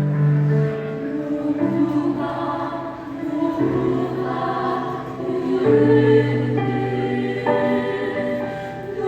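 Choir singing a Korean choral song, holding sustained chords that change every second or two.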